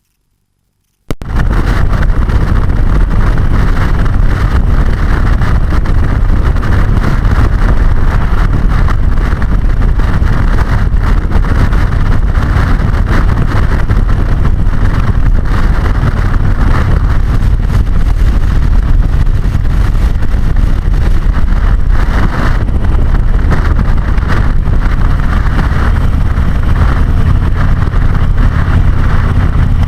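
Harley-Davidson V-twin motorcycle riding at road speed, heard from a helmet-mounted camera: loud, steady wind rush over the microphone over the engine's low drone. It cuts in abruptly about a second in.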